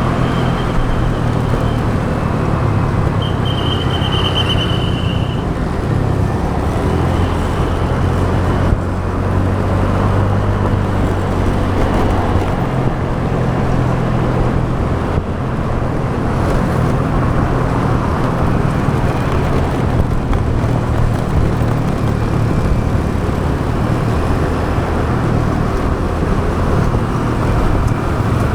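Motorbike engine running steadily at riding speed, its low note shifting slightly, under a steady rush of wind and road traffic noise. A brief high-pitched tone sounds about three seconds in.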